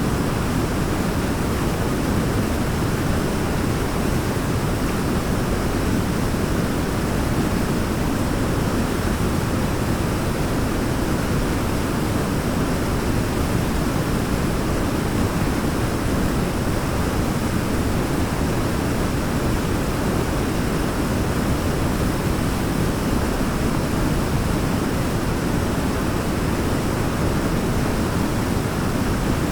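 Waterfall rushing steadily: an even, deep noise that does not change.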